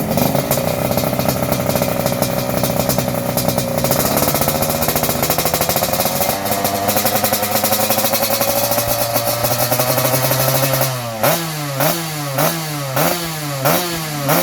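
Motorcycle engine through an aftermarket 'Super Pro' exhaust, running at a steady speed for about eleven seconds, then revved in quick throttle blips, about five short rises and falls in pitch near the end.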